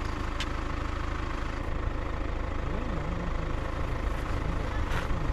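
Motorcycle engine running steadily, a low rumble with a slowly wavering pitch, and a brief click about half a second in and another near the end.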